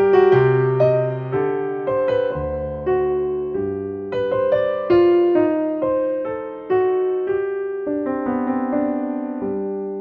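Background music: piano playing slow chords and melody notes, each struck note fading away.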